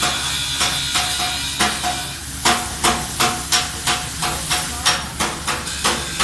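Repeated hammer blows on metal, each with a short ring, about two to three a second and quickening from about halfway through, over a steady hiss.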